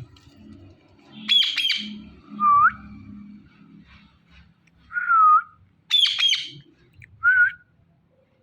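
Indian ringneck parrot calling: two bursts of harsh squawks, about a second in and again about six seconds in, with three short whistled notes in between.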